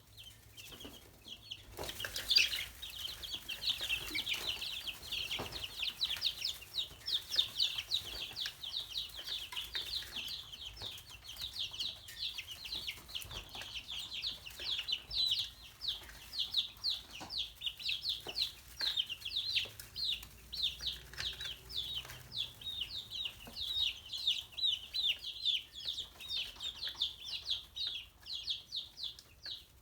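A group of chicks peeping constantly: many short, high calls, each falling in pitch, several a second and overlapping.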